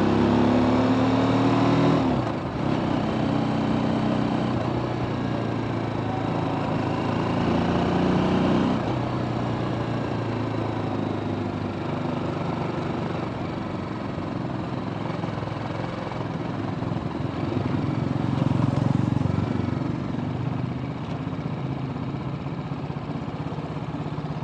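TVS Apache RTR 310's single-cylinder engine and stock exhaust under way. The pitch climbs and drops sharply about 2 s in and again about 9 s in, as when shifting up through the gears. After that it runs more steadily, with a brief rise in revs near 19 s.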